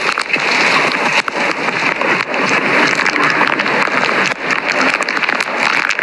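Rain falling steadily: a dense, loud hiss full of small crackling drop hits.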